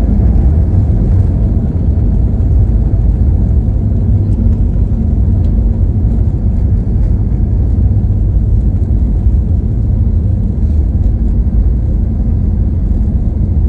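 Airliner cabin noise: a steady low rumble of the engines and airflow, heard from inside the passenger cabin.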